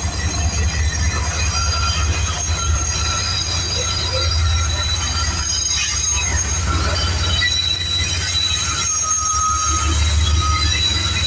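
A BNSF manifest freight train passing, with a steady low rumble and several high-pitched wheel-squeal tones held for seconds at a time.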